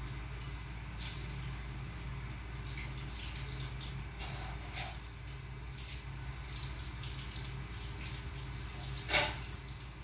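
A small bird chirping: two short, high chirps about five seconds apart, over a steady low hum.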